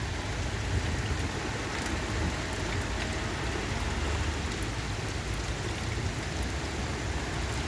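Steady rain falling during a thunderstorm, with scattered drop ticks over a low rumble.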